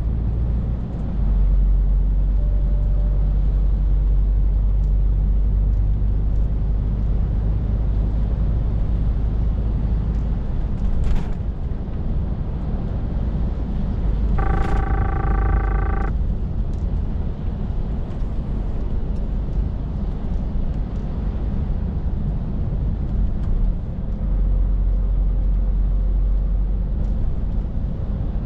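Scania R450 lorry's 13-litre six-cylinder diesel and road noise, a steady low rumble while driving. About halfway through, a brief pitched tone sounds for about a second and a half.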